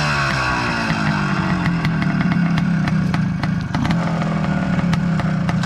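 Motorcycle engine running, its pitch sliding down over the first second or so and then holding steady.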